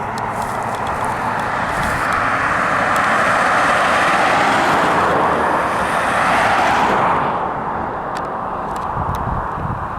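Road vehicle passing on the highway, its tyre and road noise swelling and then fading away about seven seconds in.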